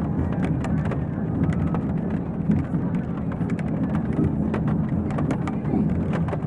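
Steady low rumble of a moving train heard from inside a dining car, with frequent light ticks of rain on the window and a faint murmur of indistinct conversation.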